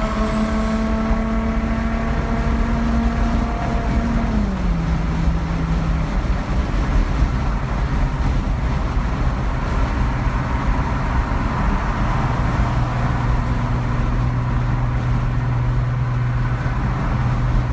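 Car engine running, with its steady drone gliding down in pitch about four seconds in and settling lower, over a constant low rumble.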